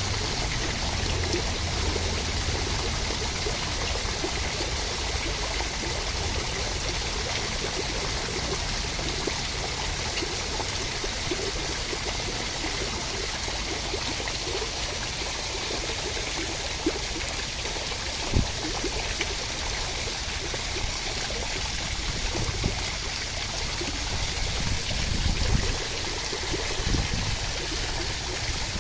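Steady rushing water, a dense even wash like rain or a stream, with a sharp low thump about 18 seconds in and a few soft low bumps near the end.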